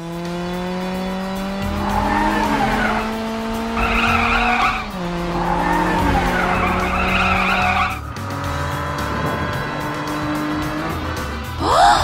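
Cartoon car-engine sound effect revving up in two long rising runs, each dropping back in pitch like a gear change, with squealing tyres over background music. A quick rising whoosh comes right at the end.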